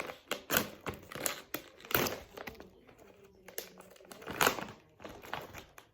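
Plastic bag of frozen pomegranate seeds being handled: crinkling and rustling, with irregular sharp clicks and rattles. It is loudest a couple of times, about two seconds in and again past four seconds.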